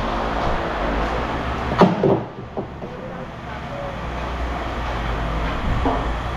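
An engine running steadily with a low rumble, and two sharp knocks about two seconds in, after which the rumble drops for a few seconds and then builds back up.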